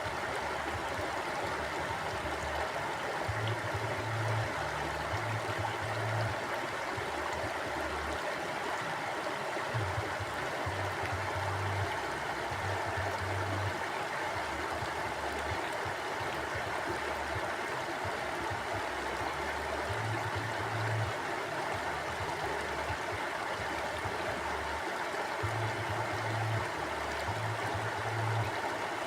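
Mountain stream flowing over rocks, a steady rush of water, with low rumbles coming and going every few seconds.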